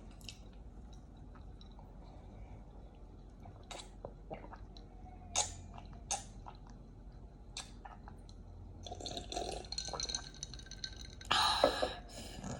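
Close-miked mukbang eating sounds: scattered wet mouth clicks and chewing of noodles and fast food. A denser run of noise comes about nine seconds in, and the loudest burst comes near the end.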